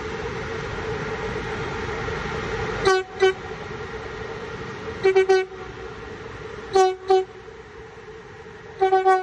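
Venice Simplon-Orient-Express train departing: its horn sounds short toots in quick groups of two and three, four groups about two seconds apart, over a steady pitched hum from the train.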